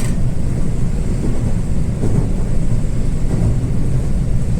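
Steady low rumble of a train running, heard from inside the passenger car.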